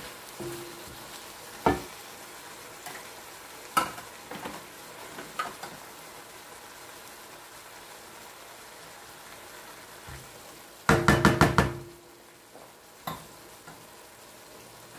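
Chicken pieces with onion, tomato, garlic and ginger sizzling steadily in a stainless steel wok, with a wooden spatula knocking against the pan now and then while stirring. A little past the middle comes a quick run of about six louder knocks that set the metal ringing.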